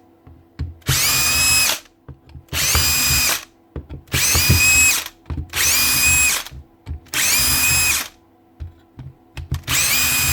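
Cordless drill-driver backing out housing screws in six short runs, each under a second. In each run the motor whine rises quickly, then holds steady. Light clicks come between the runs.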